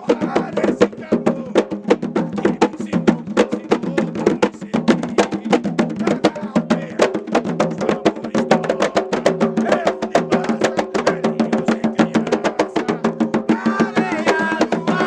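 Afro-Brazilian ritual music: a fast, steady rhythm of hand drums and percussion with voices singing over it. A voice stands out more clearly near the end.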